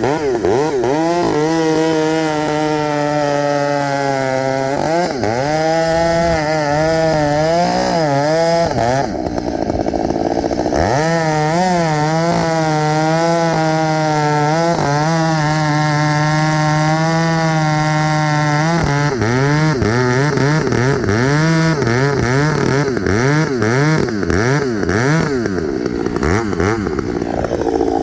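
Gas chainsaw running hard, its engine note holding high and then dipping and swooping as the throttle is worked, as when cutting through wood. It eases off for a couple of seconds about nine seconds in, then runs on, more unevenly near the end.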